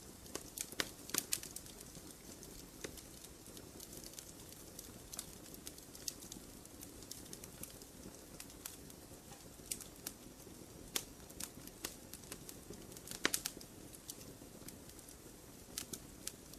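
Campfire burning: a low steady rush of flames with irregular sharp crackles and pops of wood, in small clusters about a second in and again near 13 seconds.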